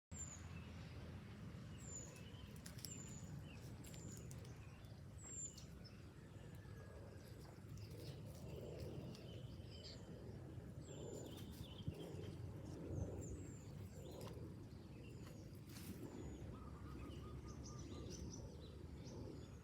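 Faint outdoor ambience: a steady low rumble with small birds chirping, short high notes that fall in pitch, repeated about once a second.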